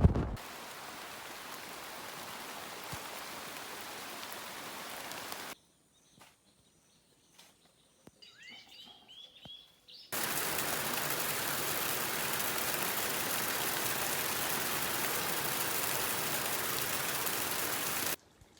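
Steady rain falling as an even hiss, in two stretches that start and stop abruptly, the second louder. In the quiet gap between them a bird gives a few short chirps.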